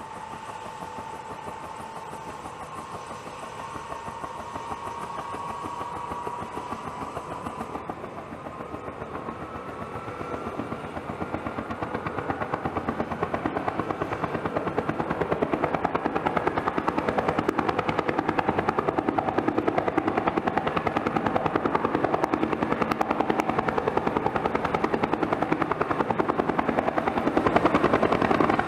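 Bell turbine helicopter starting up: the turbine whine rises slowly in pitch as the engine spools up, and the fast rotor chop grows steadily louder as the rotor comes up to speed, levelling off about halfway through.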